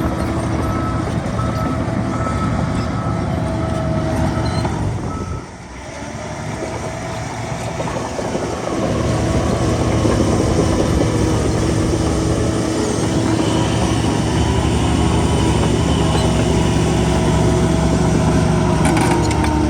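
Heavy diesel earthmoving machinery running, with a reversing alarm beeping in an even on-off pattern for the first few seconds. The engine sound drops briefly about five seconds in, then builds back up and holds steady and loud.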